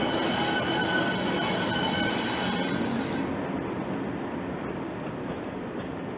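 Diesel-hauled passenger train passing slowly, led away by Class 37 diesel locomotive 37674. A high squeal with several steady tones sounds over the rumble and stops about three seconds in as the locomotive moves off. After that only the coaches are heard rolling by, fading gradually.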